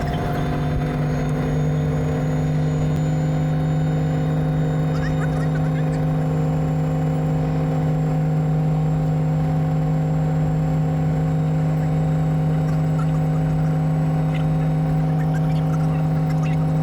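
Robinson R44 Raven I helicopter's six-cylinder Lycoming O-540 piston engine running at a steady speed, with a constant hum. Its pitch rises slightly in the first second, then holds steady.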